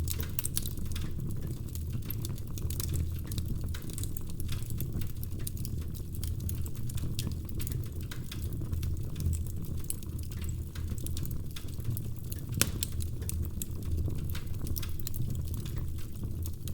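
Wood fire burning in a fireplace: a steady low rumble of the flames with irregular small crackles and pops from the logs, one sharper pop about three-quarters of the way through.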